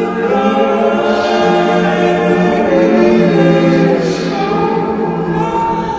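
Slowed a cappella singing by a woman, layered vocals holding long notes on 'line?' with no instruments.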